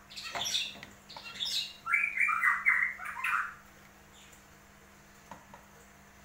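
A bird calling in two runs of short, quick notes during the first three and a half seconds, followed by a couple of faint taps.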